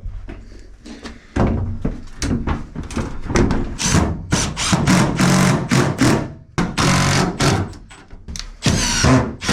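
A run of knocks, thunks and clattering from tools and materials being handled during work.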